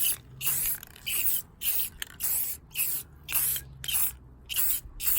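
Aerosol can of chrome spray paint sprayed in short hissing bursts, about two a second.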